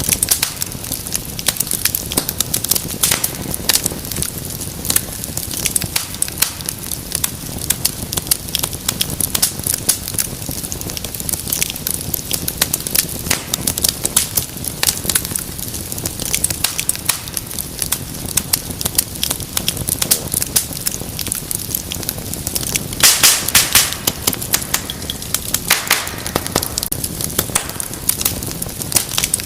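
Wood fire in a fireplace, crackling and popping steadily, with a short burst of louder pops about three-quarters of the way through.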